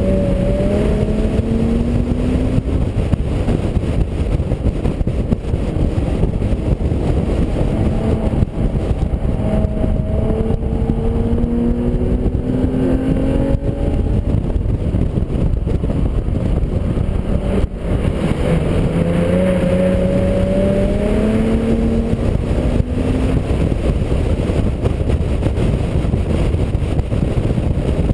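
Infiniti G35 coupe's 3.5-litre V6 driven hard on a race track, heard from inside the cabin. The engine note climbs in three long pulls and drops back between them, over a steady rush of wind and tyre noise.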